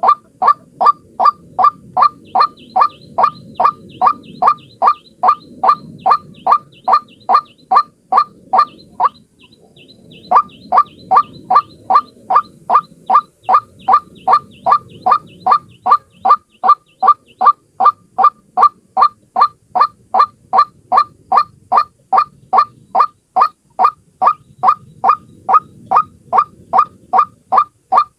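White-breasted waterhen calling: a loud, rapid series of short, identical notes, about two and a half a second, breaking off for about a second some nine seconds in and then resuming at the same pace.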